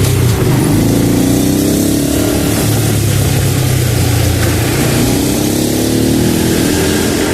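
Honda Pop 110 motorcycle's small single-cylinder four-stroke engine running while riding, rumbling, its pitch climbing twice as it accelerates.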